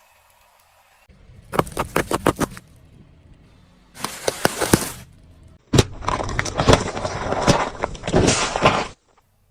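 Sharp cracking and crunching as objects are crushed under a car's tyre, in several short bursts that start and stop abruptly.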